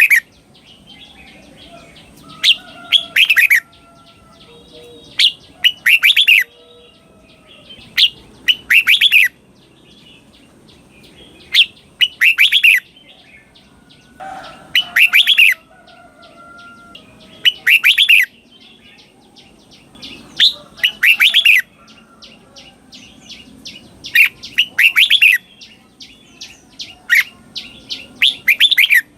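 Red-whiskered bulbul singing: short, loud phrases of quick whistled notes, each about a second long, repeated every two to three seconds.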